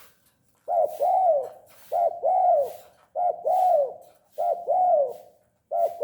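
Spotted dove cooing: five repeated phrases, each a short note followed by a longer arching coo, about one phrase a second.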